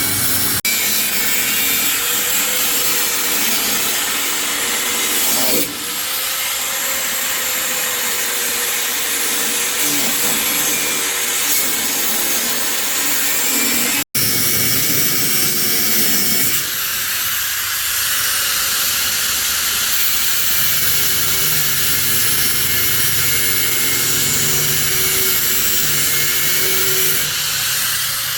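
A power tool running steadily, its noise heavy in the high end, broken by a brief dropout about halfway through.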